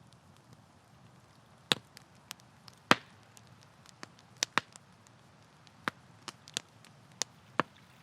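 Campfire crackling: irregular sharp pops and snaps of burning wood over a faint steady hiss, the two loudest pops about two and three seconds in.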